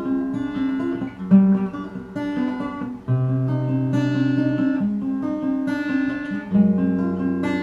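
Acoustic guitar strumming chords in an instrumental break between sung verses of a song, the chords changing every second or so.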